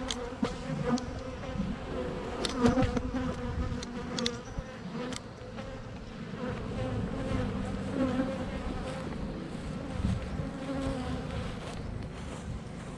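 Honeybees buzzing in a steady hum around an opened hive, with a few sharp clicks in the first half.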